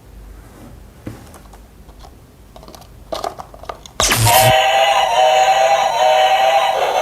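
Faint clicks of plastic toy pieces being handled. About four seconds in, a battery toy's electronic sound chip suddenly starts playing a loud synthesized jingle that steps in pitch.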